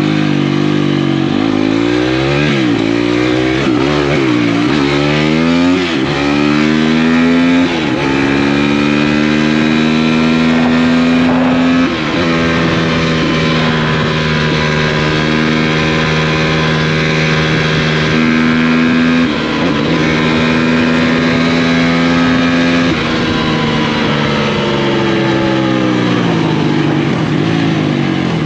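Single-cylinder four-stroke off-road engine being ridden hard. The revs swing up and down quickly for the first few seconds, then climb through gears with brief dips at each shift and hold steady at high revs, easing off near the end.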